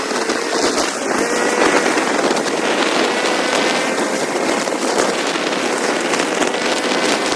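Motorcycle riding at a steady speed: the engine holds a faint, steady note under loud rushing wind and road noise.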